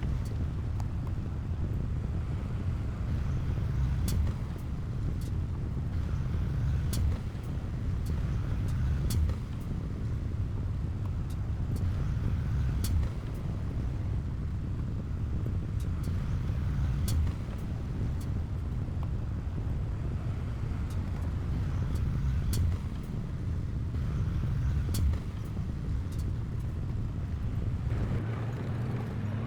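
Heavy diesel earthmoving machinery running steadily with a low rumble, with scattered sharp clicks every one to few seconds.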